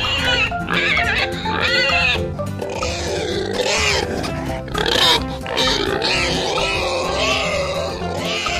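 A pig making high, shifting squealing calls over background music.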